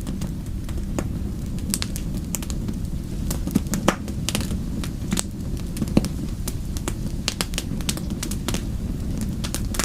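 Fire crackling steadily: many sharp pops and snaps over a low, even rumble, with two louder pops a little before and after the middle.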